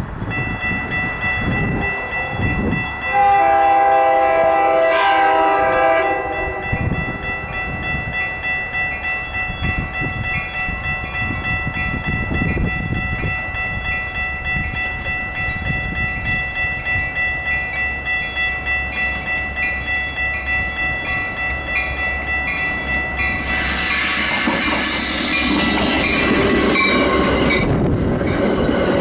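Metra commuter train sounding its horn, a chord held for about three seconds near the start. A steady high ringing and a regular rhythmic clatter of the train on the rails follow, with a louder burst of noise lasting a few seconds near the end.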